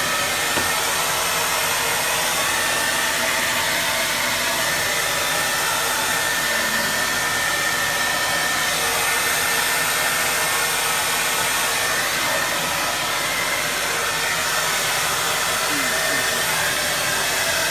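A steady rushing noise with a faint high whine, unbroken throughout.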